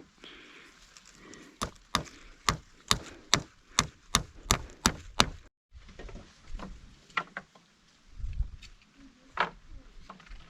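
Wood being chopped with a blade: a run of about ten sharp blows, a little over two a second, then a few lighter, scattered knocks.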